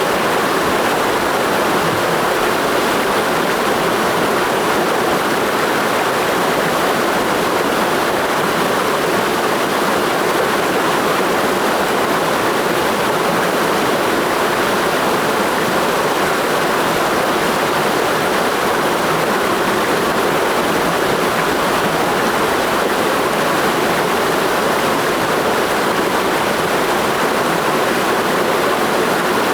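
Mountain stream rushing steadily over rocks, an even, unbroken sound of running water.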